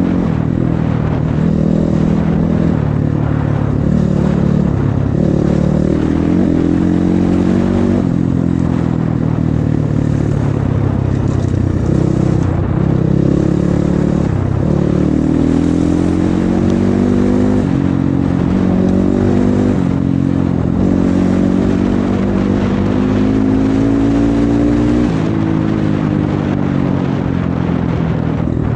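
Off-road motorcycle engines running under way, the pitch climbing again and again as they accelerate through the gears and dropping back between shifts.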